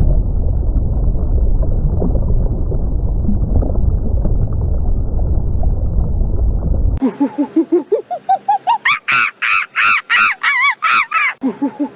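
A deep underwater rumble for about seven seconds. Then comes a monkey-like call: a fast run of hoots that climbs steeply in pitch into shrill, repeated cries.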